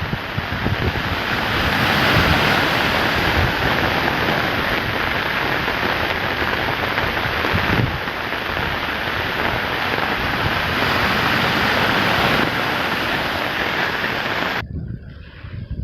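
A steady, loud rush of moving water with wind buffeting the microphone in low gusts, cutting off suddenly near the end.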